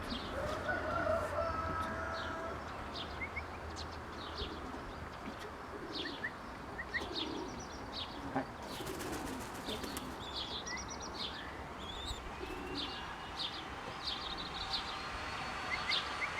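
Birds around a pigeon loft: many short, high chirps throughout, with soft low cooing from young racing pigeons. A brief rapid flutter of wings about nine seconds in.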